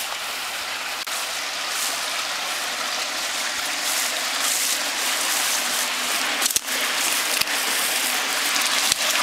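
Steady hiss of water, either running water or rain, with a few light knocks near the end.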